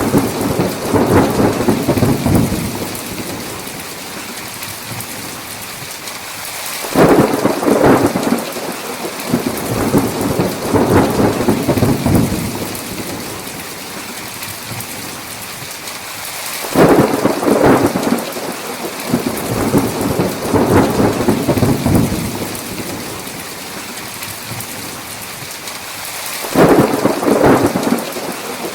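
Heavy rain falling steadily through a thunderstorm, with rolls of thunder breaking in about every ten seconds and rumbling for several seconds each: one is fading at the start, and new ones begin about seven, seventeen and twenty-seven seconds in.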